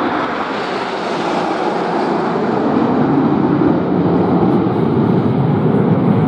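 Engine noise of a display aircraft flying past. It sounds brightest and hissiest about a second in, then turns deeper and slightly louder towards the end.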